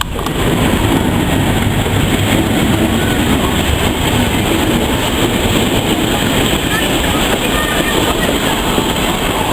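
Heritage railway train running on the rails: a steady, loud rumble and rattle of the wheels and carriages.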